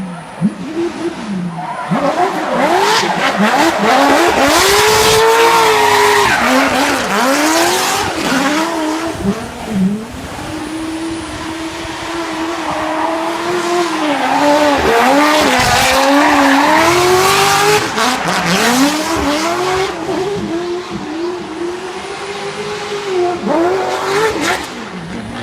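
Volkswagen Passat race car driven hard: the engine revs rise and fall over and over as the throttle is worked, while the tyres squeal and skid. It is loudest about a third of the way in and again past the middle, and eases off near the end.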